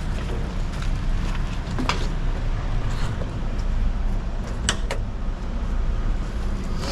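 Diesel engine running low and steady, with a few sharp metallic clicks around two and five seconds in.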